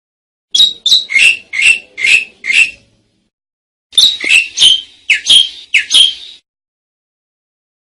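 Asian pied starling (jalak suren) calling: two loud phrases of about six harsh, whistled notes each, every note falling in pitch, with a pause of about a second between the phrases.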